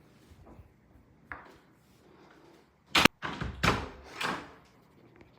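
An interior door being pushed open, with one sharp knock about three seconds in and a few soft swishing sounds after it. The door makes no creak: its hinges have just been fixed.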